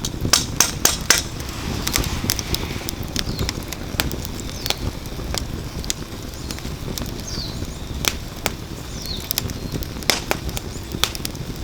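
Wood fire crackling in a fire pit: irregular sharp pops and snaps from the burning firewood over a steady low rustle of the flames, with a quick run of louder pops in the first second.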